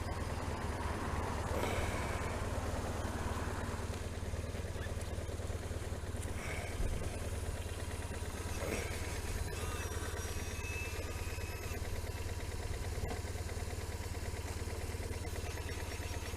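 Motorcycle engine running steadily at low revs, an even low drone with no revving.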